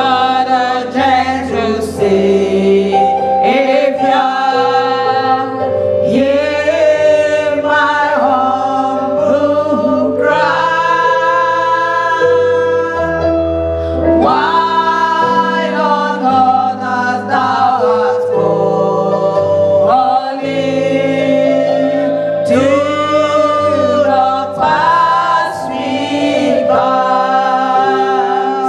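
Church choir singing a gospel hymn with voices in harmony, over a keyboard accompaniment with held bass notes.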